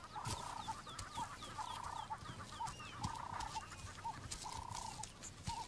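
Birds calling: a repeating pattern of a long clucking note followed by a short one, recurring about every second and a half, with faint high chirps that drop in pitch over it.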